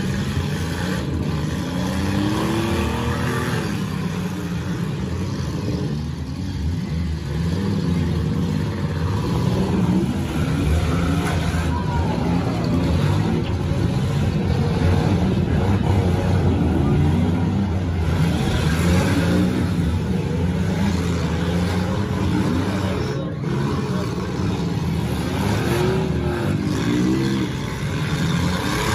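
Many demolition derby cars' engines running together in the arena, several revving up and down again and again as drivers accelerate to ram one another.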